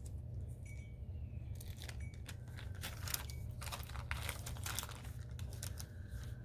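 Fingers rubbing and smoothing soft air-dry clay on a sculpted bird, heard as a run of irregular crinkly scratches starting about a second and a half in, over a steady low hum.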